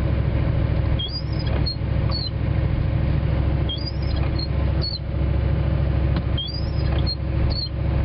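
Windshield wipers squeaking across the glass in short high chirps, two squeaks per sweep cycle, repeating every two to three seconds. Under them is the steady drone of the four-wheel-drive vehicle's engine and tyres, heard from inside the cab as it pulls up a snowy hill in second gear.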